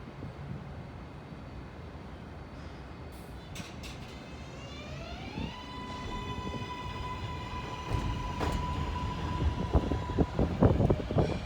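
Kawasaki R188 subway train pulling out. The traction motors' electronic whine climbs in a stack of rising tones for about two seconds, then holds at one steady pitch. Wheel rumble and clacking over rail joints build up and grow loudest near the end.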